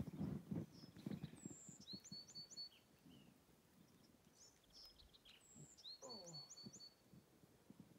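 A songbird singing the same short phrase twice, about four seconds apart: a high down-slurred note, a quick trill and a lower falling note. Faint.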